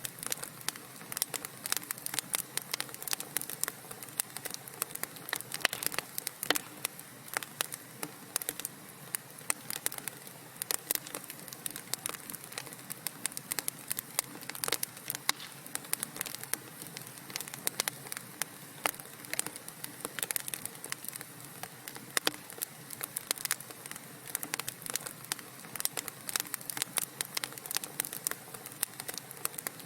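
Wood fire crackling: dense, irregular sharp pops and snaps from the burning logs over a soft steady hiss.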